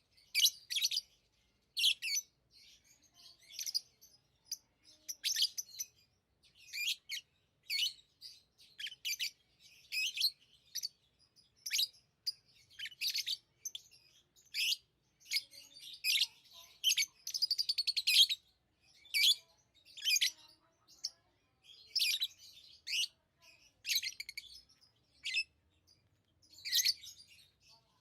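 Pet lovebirds chirping: short, high, sharp chirps coming irregularly, one or two a second, with a quick rapid run of notes about two-thirds of the way through.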